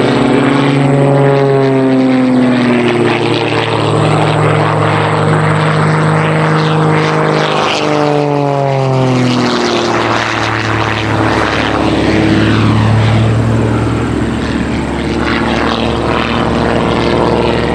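Propeller engines of Christen Eagle aerobatic biplanes flying past, loud, their pitch falling as they go by, once about a second in and again about eight seconds in.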